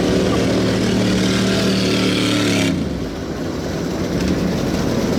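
Off-road truck engine running at a steady pitch, which breaks off abruptly a little past halfway, leaving a lower, rougher engine rumble.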